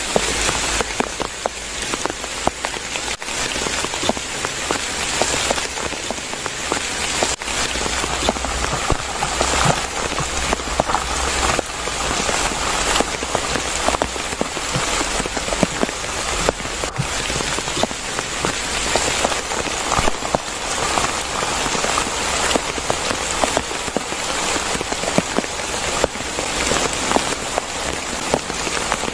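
Steady rain falling in forest, with many separate drops striking close by, heard as a constant stream of small clicks over the hiss.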